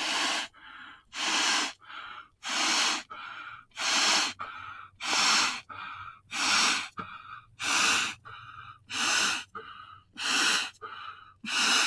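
Manual air pump inflating an air mattress: a rhythmic hiss of air, about ten strong pump strokes a little over a second apart, each followed by a softer hiss on the return stroke.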